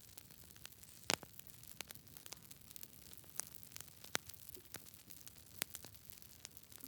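Wood fire crackling in a fireplace: scattered sharp pops and snaps over a low, steady hiss, the loudest pop about a second in.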